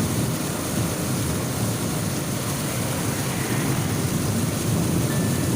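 Steady rushing noise with a low rumble, from heavy rain and strong wind in a storm.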